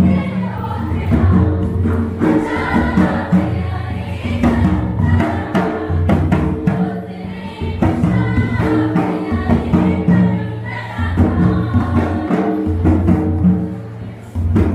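Music: a group of voices singing in chorus over drum strikes, in phrases with brief breaks between them.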